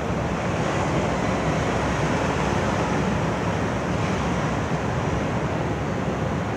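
Steady street traffic noise mixed with wind on the microphone, an even hiss and rumble with no distinct events.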